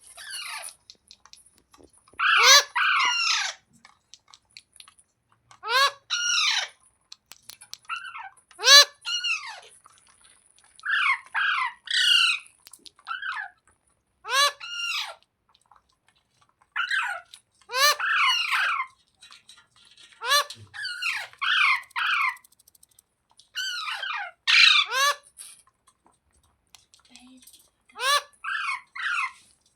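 Green ringneck parrot calling in short bouts of quick, harsh notes, about nine bouts roughly three seconds apart.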